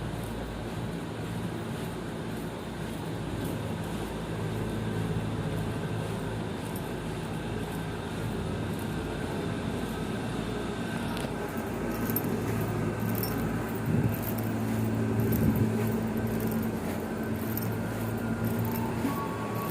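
Steady low rumble and hum inside a moving KRL electric commuter train, with light rattling clicks from about twelve seconds in.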